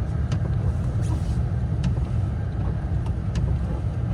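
Steady low road and engine rumble inside the cabin of a diesel GMC Denali driving in snow. Short clicks come about every second and a half from the windshield wipers sweeping.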